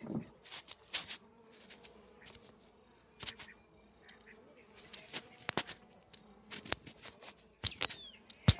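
Honeybees buzzing steadily around an opened hive, with repeated sharp clicks and knocks from the hive being handled, loudest near the end.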